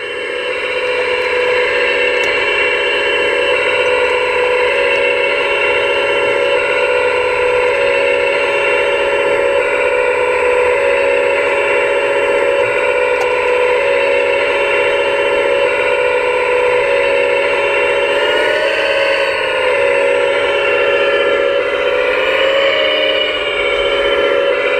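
Steady mechanical whine of a scale RC construction machine running, its pitch sagging briefly twice, as under load, near the end.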